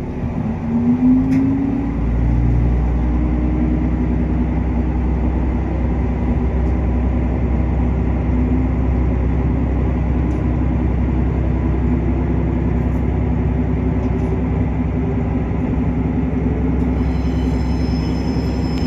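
Diesel railcar pulling away from a station, heard from inside the car. The engine note rises over the first two seconds and gives way to a steady low running rumble, and a thin high wheel squeal starts near the end.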